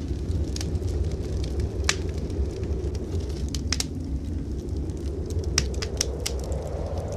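Wood fire crackling in a fireplace, with irregular sharp pops, over the steady low rumble of blizzard wind.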